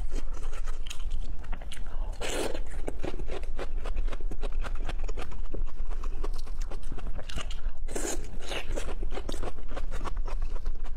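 Close-miked eating: a person biting and chewing, with dense wet clicks and crunches and two louder bites, one about two seconds in and another about eight seconds in.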